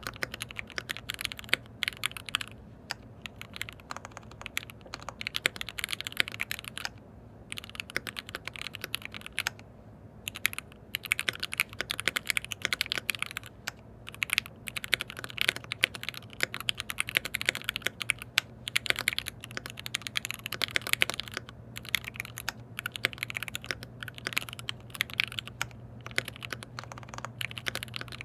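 Fast typing on a KBD67 Lite R3 custom mechanical keyboard with lubed linear switches. It comes in runs of dense keystrokes broken by short pauses of about a second.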